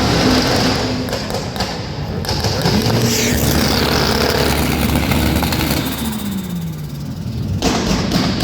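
Tuned car engine revved hard while standing still. The revs climb about two and a half seconds in, hold, then fall away around six to seven seconds in, and sharp crackles follow near the end.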